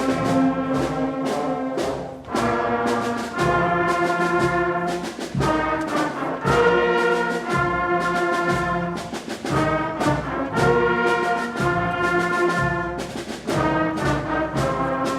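Fifth-grade school concert band playing a piece, with brass prominent. It plays held chords that change every second or two, with a short break about two seconds in.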